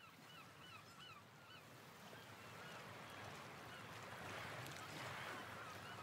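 Faint honking bird calls, a quick run of short calls in the first two seconds that fade out, under a wash of noise that slowly grows louder.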